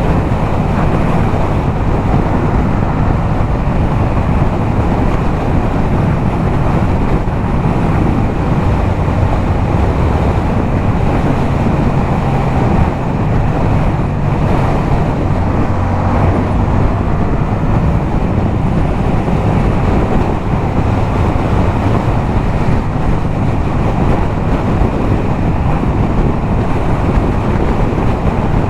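Yamaha MT-07's parallel-twin engine running steadily at highway speed through a LeoVince aftermarket exhaust, with heavy wind noise on the microphone.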